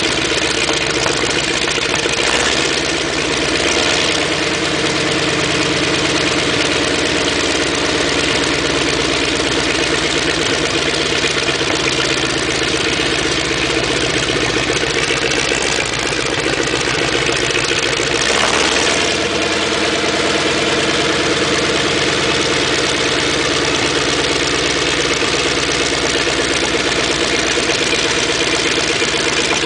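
Sherman tank engine idling steadily, with a brief swell in its sound twice, a couple of seconds in and again past the halfway mark.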